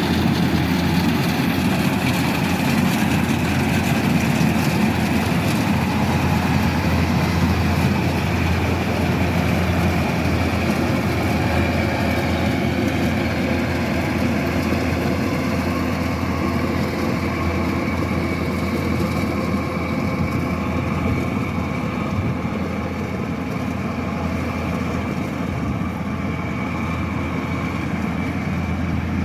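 Kubota DC-108X combine harvester running steadily: a deep engine drone with a high machine whine over it, easing slightly toward the end.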